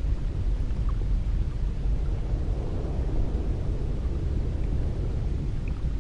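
Cold wind blowing: a steady low noise that swells a little around the middle.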